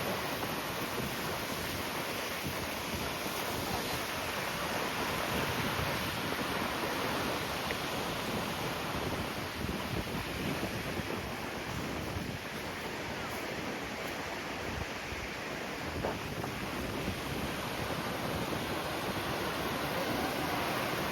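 Strong wind blowing on the microphone: a steady, even noise without breaks.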